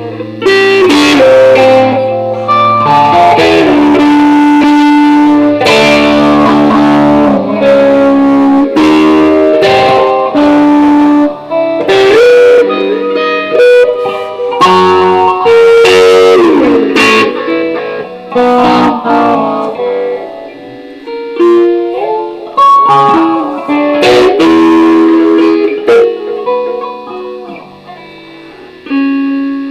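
Electric guitar played unaccompanied: plucked single notes and chords, some held, with several string bends about halfway through. The guitar is a neck-through-body electric.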